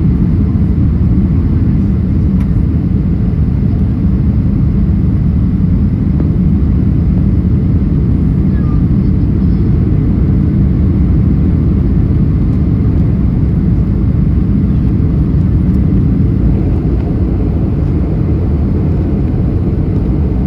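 Steady cabin rumble of a Boeing 737NG on approach, heard from inside the passenger cabin: the CFM56 engines and rushing airflow making a loud, even, low roar.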